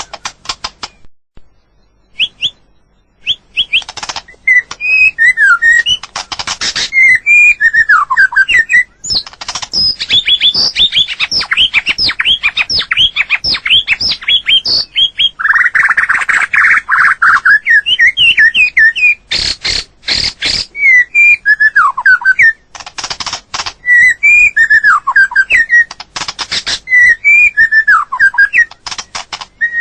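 White-rumped shama singing: varied whistled phrases that glide up and down, fast trilled runs, and sharp clicking notes throughout.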